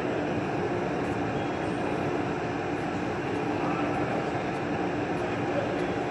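A steady mechanical drone with a constant hum and no pauses.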